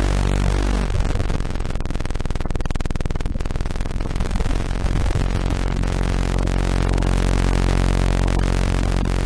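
Electronically generated tones layered into a dense, harsh buzzing drone, with several pitches sliding about a second in before settling into steady tones again.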